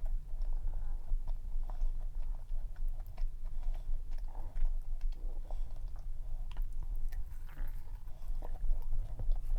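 Close-up chewing and biting of a dense cream-cheese cup cookie, with many small irregular mouth clicks.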